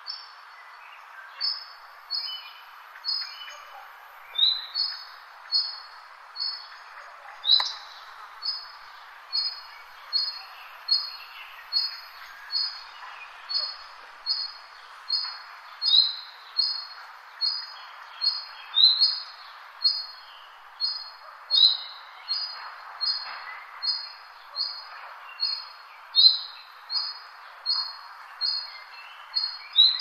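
A songbird repeats a short, high chirp at an even pace of a little more than one a second, with a few lower, downward-sliding notes mixed in. Behind it is a steady background hiss with fainter bird calls.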